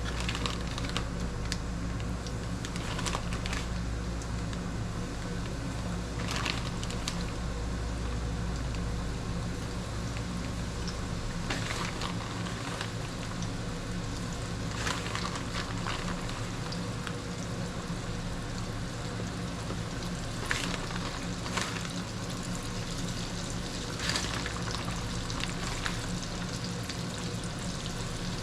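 Battered fish frying in hot oil: a steady sizzle with a handful of short, louder pops or clatters, over a low steady hum.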